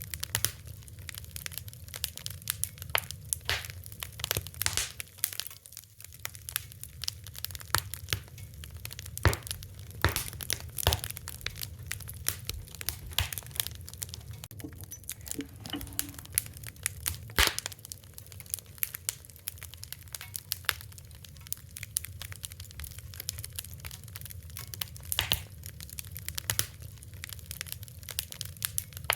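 Wood fire crackling: irregular sharp pops and snaps over a steady low rumble of burning, with a few louder pops about nine, eleven and seventeen seconds in.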